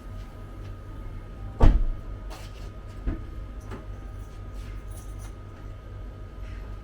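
Steady low rumble of a car heard from inside the cabin, with several sharp knocks or thumps; the loudest comes about a second and a half in, and a few smaller ones follow over the next two seconds.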